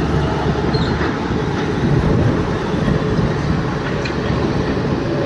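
Heavy machinery running with a steady, loud rumble.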